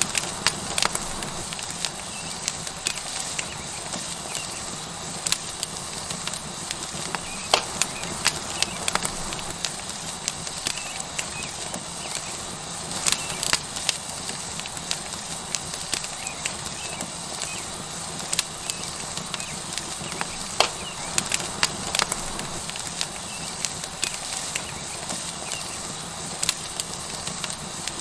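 Tomahawk steak sizzling on a hot rock over a wood fire: a steady hiss with frequent sharp crackles and pops from the burning wood.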